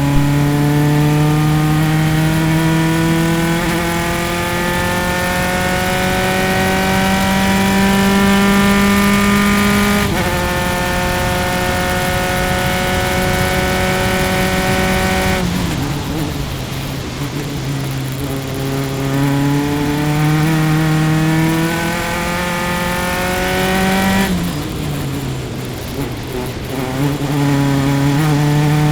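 Single-seater race car engine heard onboard, pulling hard with its pitch climbing steadily, then dropping sharply at an upshift about ten seconds in. Around fifteen seconds in the revs fall away as the driver lifts and slows for a corner, then the engine climbs again, with another lift and climb near the end.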